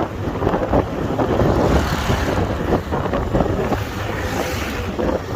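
Wind buffeting the microphone of a motorcycle rider on the move, over the bike's running and road noise, fluctuating but steady overall.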